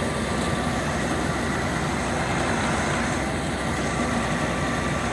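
A farm machine's engine running steadily at an even pitch, with a dense mechanical hum and a few faint steady whines.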